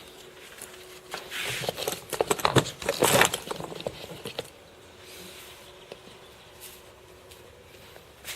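Rustling, rubbing and clicking handling noises, a close burst of about two and a half seconds starting about a second in, then quieter with a few isolated ticks.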